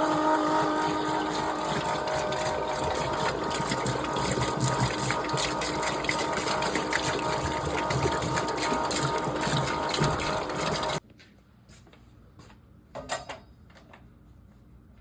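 A small electric pump runs steadily with a rattling motor noise and the rush of water, as the water heater tank is drained. It stops abruptly about eleven seconds in, followed by a few faint clicks.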